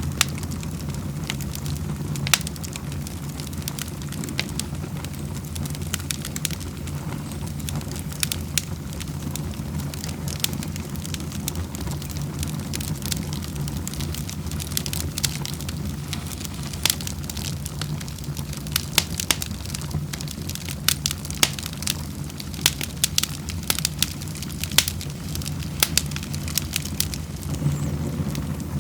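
Wood fire crackling in a fireplace, with frequent sharp pops over a steady low rumble; the pops come thicker in the second half.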